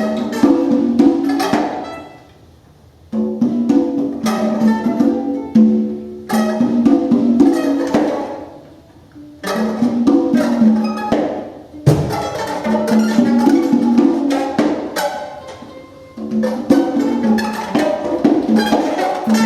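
Free-improvised acoustic music: sharp hand-percussion strikes over plucked-string notes, played in phrases broken by short pauses about two, eight and sixteen seconds in.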